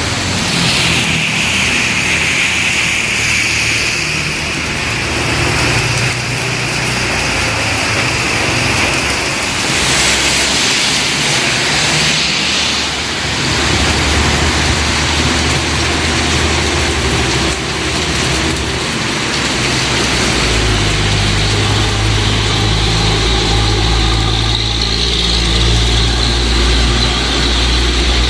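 Steady rain hiss mixed with a vehicle engine running. The engine's low hum comes up partway through and is strong and steady through the last third.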